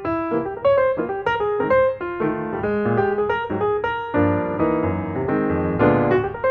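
Background piano music: a melody over chords, with notes struck at a steady pace.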